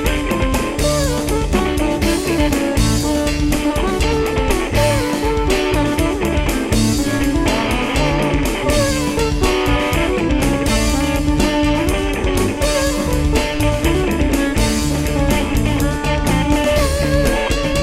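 Live rock band playing an instrumental passage: an electric guitar playing a solo with bending notes over bass, keyboards and a steady drum-kit beat.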